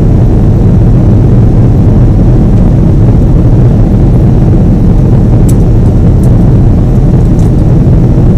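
Boeing 777 jet engines and airflow making a steady, loud, low rumble, with a few faint ticks partway through.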